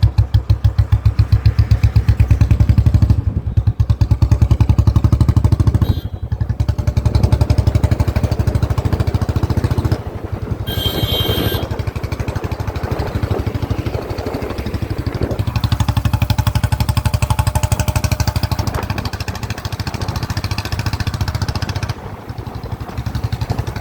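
A Royal Enfield Bullet's single-cylinder engine idling with a steady, even thump, its exhaust note freshly tuned for a deeper bass thump. About ten seconds in there is a brief high-pitched sound.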